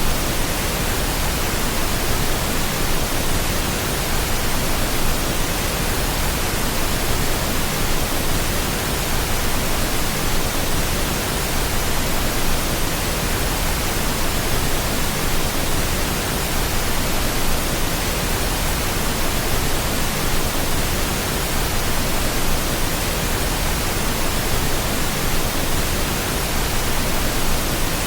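Steady pink noise: an even, unchanging hiss spread across all pitches, used as a sleep aid for babies.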